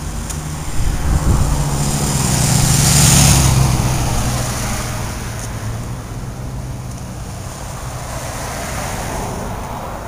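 A car driving past: its engine and tyre noise grow louder to a peak about three seconds in, then fade away.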